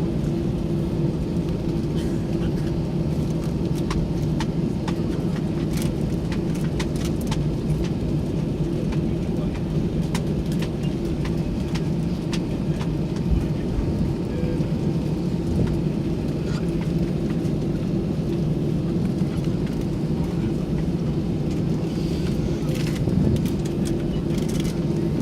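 Airbus A320 in flight or on the move, heard as a steady engine and airflow drone with a low hum and two steady low tones. Occasional light clicks and rattles come over it.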